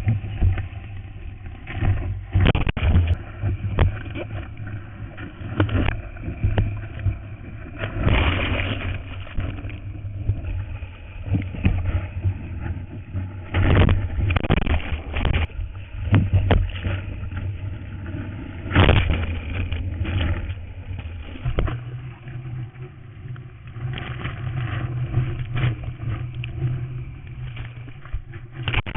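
Surf and wind noise on a first-edition GoPro Hero's microphone: a steady low rumble with repeated rushes of water and bumps, the loudest about 8, 14 and 19 seconds in.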